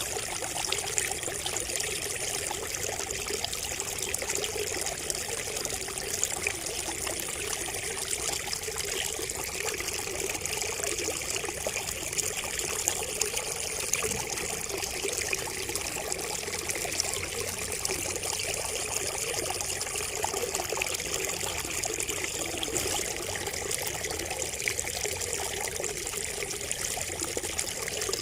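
Water trickling and splashing steadily from a bamboo spout, a continuous patter of small drops. A faint, thin high tone comes and goes a few times over it.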